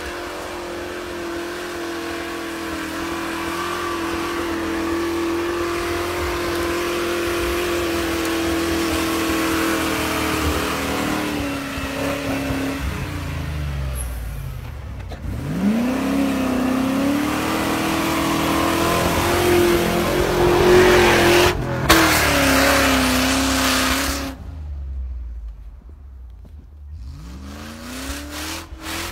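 Land Rover Discovery's V8 engine working under load as the vehicle pushes through deep snow. The engine note holds steady, dips about halfway through and then climbs again as the revs rise, falls away for a few seconds near the end, and starts to rise again.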